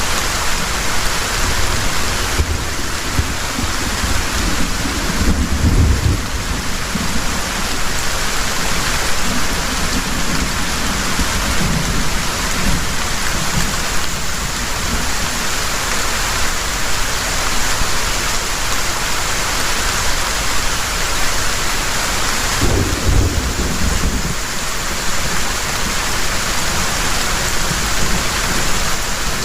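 Heavy rain falling steadily, with low rumbles of thunder through the first several seconds and a stronger thunder rumble about three-quarters of the way through.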